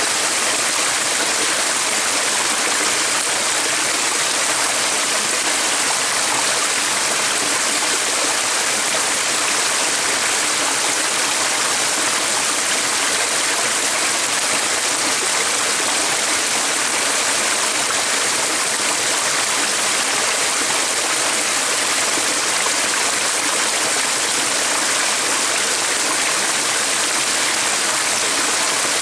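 Running water, like a stream, making a steady, even rush that does not change.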